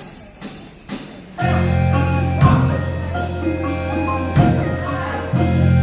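Wind band and percussion music starting about a second and a half in: a held low chord with higher sustained notes on top, and a loud percussion hit about every two seconds.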